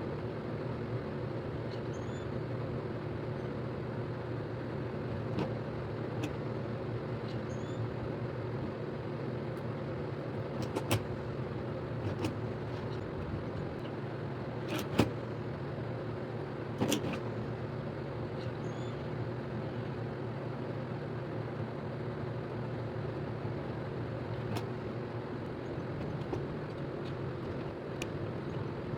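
A steady mechanical hum, with a few sharp clicks scattered through it, the loudest about halfway.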